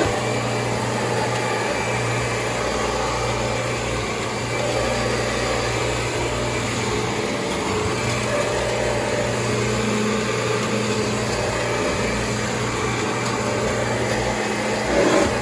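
Kirby G4 upright vacuum cleaner running steadily, its motor humming at an even pitch, with a brief louder surge near the end.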